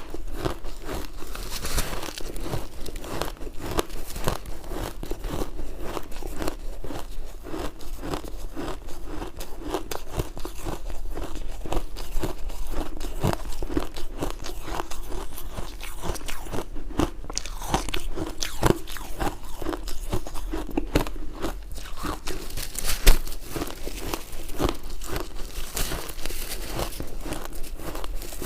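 Ice being bitten and chewed, a continuous run of crunching and cracking with no pauses.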